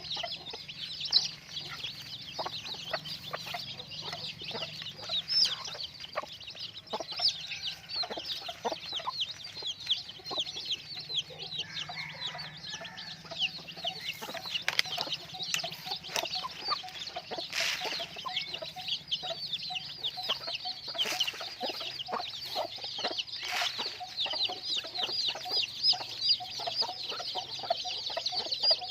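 A large flock of chickens peeping and clucking together: a dense, unbroken chatter of short high falling chirps, with lower clucks and scattered clicks, over a low steady hum.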